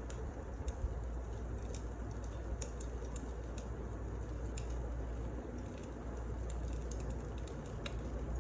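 Wood fire crackling: scattered, irregular sharp pops and snaps over a steady low rumble of burning.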